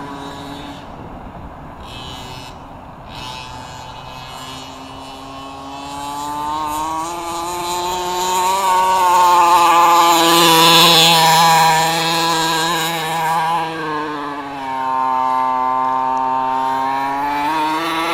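The 32cc two-stroke gas engine of a 1/5-scale Redcat MT truck running. It starts low, revs up over a few seconds to a steady high whine, drops off briefly about two-thirds through, then climbs again near the end.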